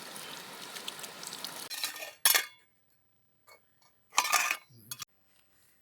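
A steady rushing hiss that cuts off about two seconds in, followed by two sharp clinks of hard objects such as camp pots or utensils knocking together, about two seconds apart, and a small tap near the end.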